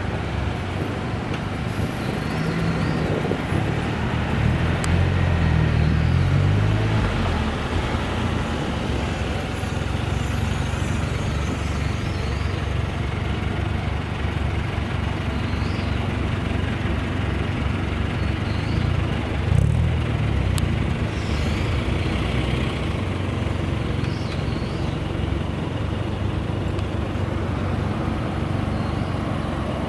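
Classic car engines running as cars drive past, with a louder engine a few seconds in and another about twenty seconds in.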